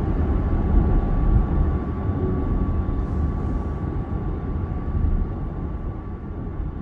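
Road and wind noise of a VinFast VF8 electric SUV travelling at highway speed on a wet road: a steady low rumble with a faint thin tone running through it. The noise slowly eases toward the end.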